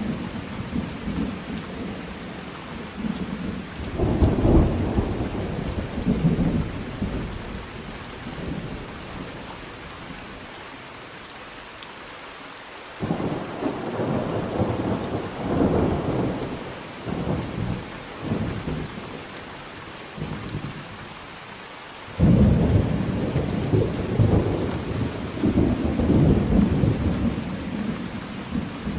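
Thunderstorm: steady rain hissing, with rolling thunder. Three long rumbles come in about 4, 13 and 22 seconds in, the last two starting suddenly, each rolling on and fading over several seconds.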